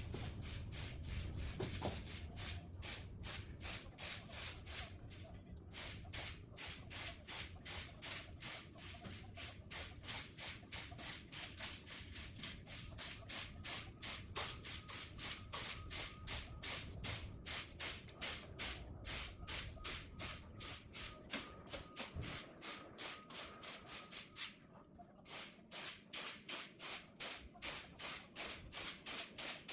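Rhythmic scraping strokes, about two to three a second, that stop briefly twice.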